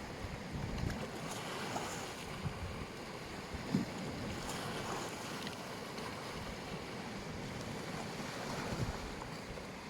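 Sea waves washing onto a beach in a steady rush, with wind buffeting the microphone in occasional low thumps.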